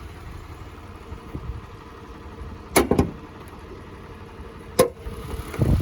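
Hood latch of a 2022 Toyota Highlander being released: a quick double metallic click about three seconds in, a single sharp click near five seconds, then a low thump as the hood is raised.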